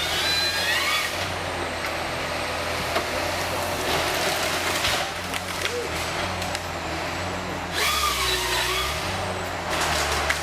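Heavy machinery running with a steady engine hum, broken by several bursts of hissing noise with high squeals.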